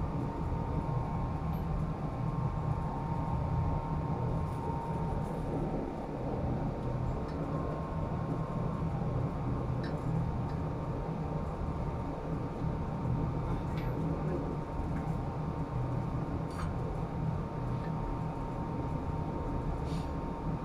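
Steady machinery drone, low and even, with a thin constant whine on top and a few faint clicks and taps here and there.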